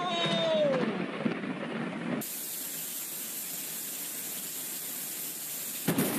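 Heavy rain pouring down, a steady hiss, from about two seconds in. Before it comes a brief storm sound with a falling tone.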